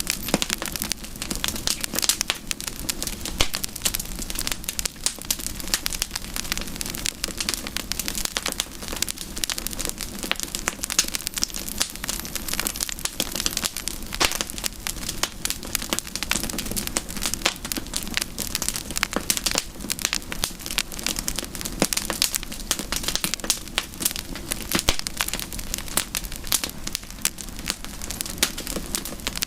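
Wood campfire burning, crackling continuously with many quick sharp pops.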